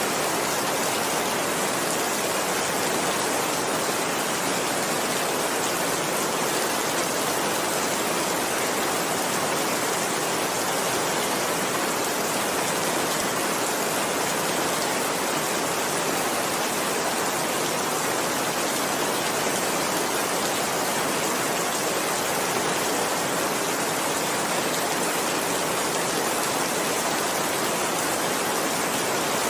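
Heavy rain falling, a steady, even hiss with no thunder and no separate drops standing out.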